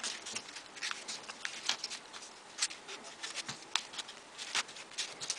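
Folded paper units of a 3D origami model being pushed into place by hand: irregular light paper clicks and rustles, several a second.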